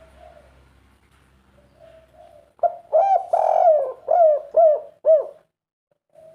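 Spotted dove calling close up: a loud cooing phrase beginning about two and a half seconds in, one longer note followed by several shorter ones, each rising and falling. Fainter coos sound before it and again near the end.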